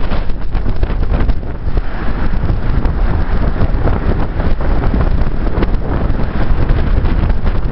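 Strong wind buffeting the microphone in a windstorm: a loud, continuous low rumble with rapid gusty flutter.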